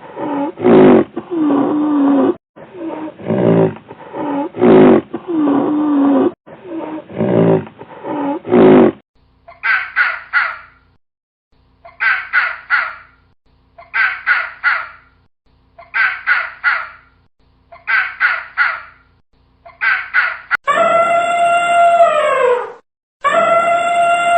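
A run of deep, closely repeated animal calls, then a crow cawing in runs of three caws about every two seconds, then, near the end, long calls that fall in pitch, like a dog howling.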